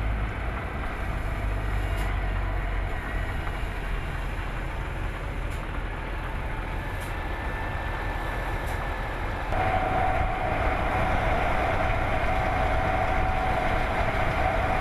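Volvo FH16 700 heavy truck running on the road, its 16-litre six-cylinder diesel making a steady low drone under tyre and road noise. About nine and a half seconds in, the sound grows slightly louder and a steady whine joins it.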